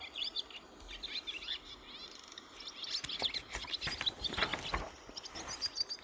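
Small songbirds chirping and twittering in quick, high, short notes, overlapping throughout, with a brighter run of high chirps near the end.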